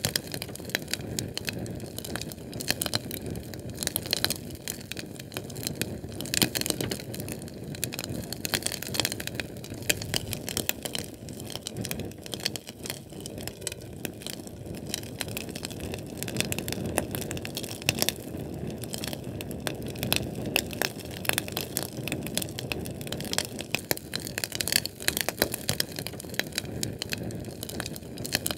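Fire crackling steadily, with dense, irregular sharp pops and snaps over a low rumble of the flames.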